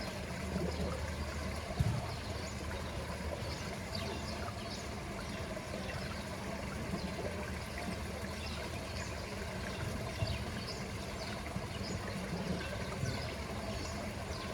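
Swimming-pool water trickling and lapping steadily, with small splashy flicks and a couple of soft low thumps.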